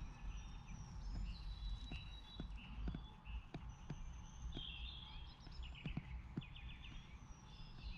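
Birdsong: several birds chirping and whistling, with a short rapid trill a little after halfway, over a low rumble and a few scattered soft knocks.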